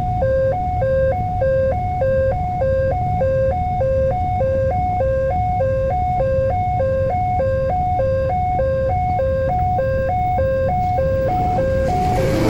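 Railway level crossing warning alarm sounding a steady two-tone electronic signal, alternating high and low about twice a second, over a low rumble of waiting traffic. Near the end a rush of noise builds.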